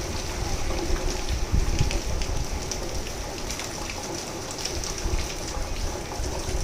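Steady rain falling, with scattered nearby drops ticking and a low rumble underneath.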